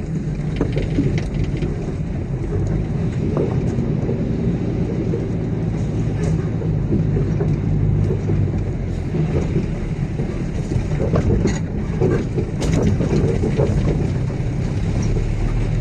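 Heavy diesel engine of construction machinery running steadily, with a few sharp knocks or clanks along the way.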